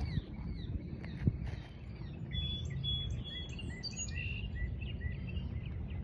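Small birds chirping and trilling over a steady low outdoor rumble of wind or distant noise, with one sharp click about a second in.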